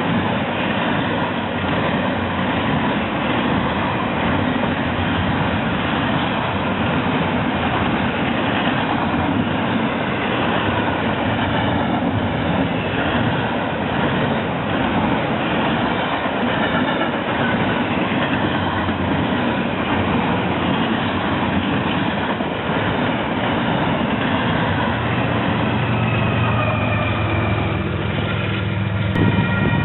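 A train rolling past close by: a steady rumble with the clatter of wheels on the rails.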